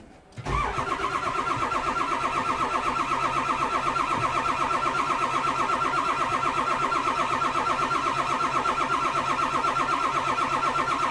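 Ford diesel truck's starter motor cranking the engine in an even, rapid pulse, starting about half a second in, without the engine catching: a cold start at about 7 °F after cycling the glow plugs.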